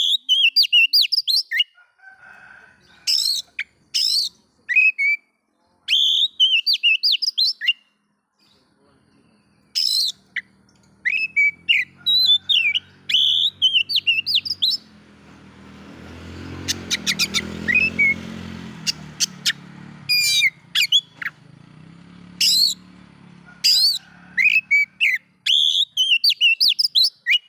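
Oriental magpie-robin (kacer) singing in repeated short bursts of fast, varied whistles and chirps. A low droning hum swells and fades through the middle.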